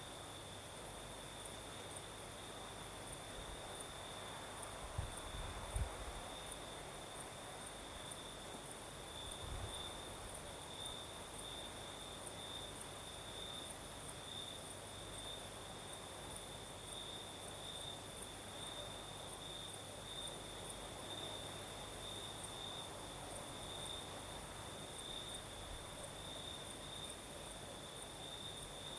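Crickets singing in a steady high trill, with a fainter, higher insect ticking above them, over the soft hiss of a night breeze. A couple of low thumps come about five to six seconds in.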